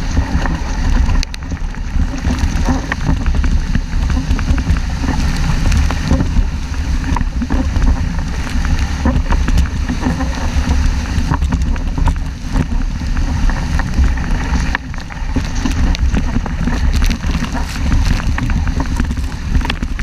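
Wind rumbling on the microphone over water rushing and spattering along the hull of a 470 sailing dinghy moving fast in strong wind, a steady loud rush with many small splashes.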